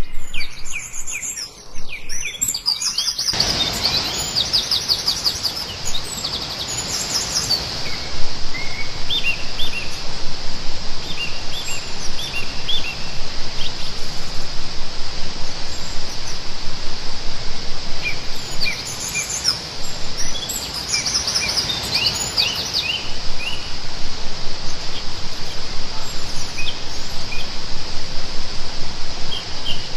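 Forest birds chirping and calling, with many short high notes in scattered bursts. About three seconds in, a steady hiss comes in under them, along with a high continuous pulsing drone.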